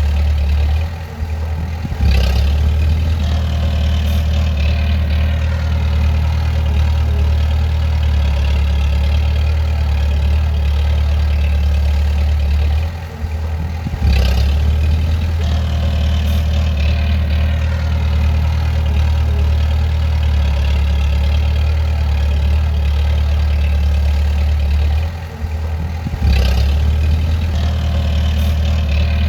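Bulldozer's diesel engine running steadily under load, with a strong low hum. About every 12 seconds the engine sound dips briefly, then comes straight back up.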